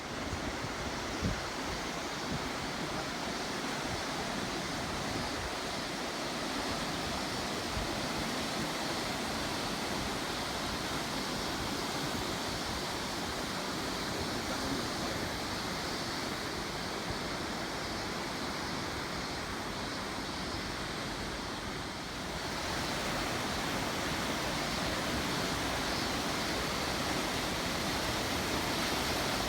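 Tama River water rushing steadily over rapids, a constant even rush that swells a little louder about two-thirds of the way through.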